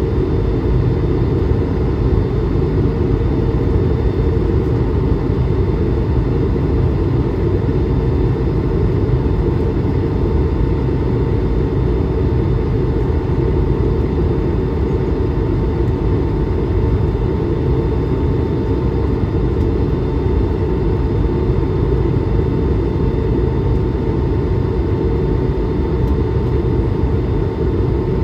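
Steady cabin noise of an Airbus A220-300 in flight after takeoff: its Pratt & Whitney PW1500G geared turbofans and the airflow make an even, deep rumble with a faint steady whine above it, unchanging throughout.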